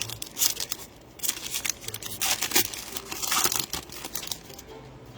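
Plastic wrapping of Panini Prizm football trading card packaging being torn open and crinkled, in a string of irregular rustling bursts that die away near the end.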